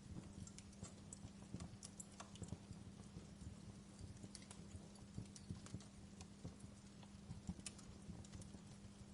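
Wood fire crackling quietly: irregular small pops and snaps of burning logs, several a second, over a faint low steady hum.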